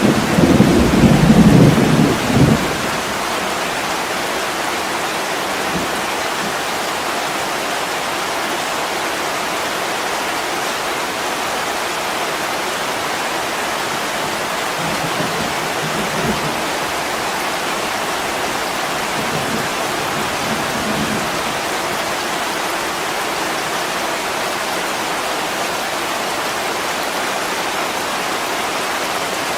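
Heavy rain on a window, steady throughout. Thunder rumbles low for the first two seconds or so, with fainter rumbles again around the middle.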